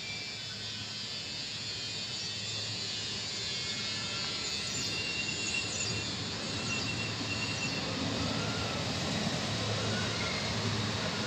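Regional train of UIC-X coaches with an E464 electric locomotive pushing at the rear, gathering speed out of the station: a steady rolling rumble and electric hum that slowly grows louder, with a few faint wheel squeaks in the middle.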